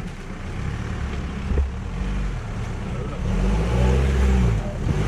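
Off-road 4x4's engine revving, its pitch rising and falling repeatedly and getting louder about three seconds in, with a brief knock about one and a half seconds in.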